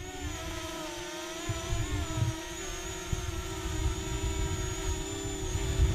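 Parrot Anafi quadcopter's propellers humming steadily in flight, a wavering pitched drone with overtones, over a low uneven rumble of wind on the microphone.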